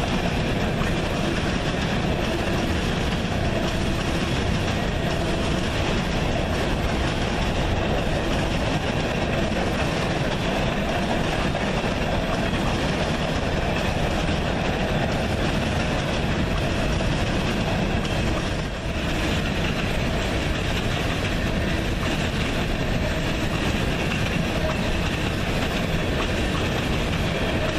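A train's railroad cars rolling past on the track: a steady, loud rolling noise with one brief dip about 19 seconds in.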